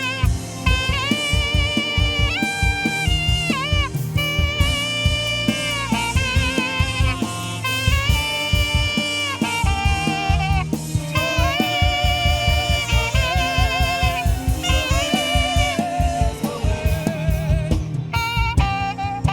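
Saxophone playing a solo melody of held notes with vibrato over a live band, with drum kit and bass keeping a steady groove underneath.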